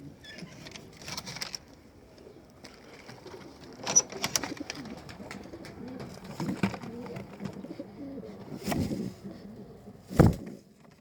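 Domestic pigeons cooing, with a few sharp clacks, the loudest near the end.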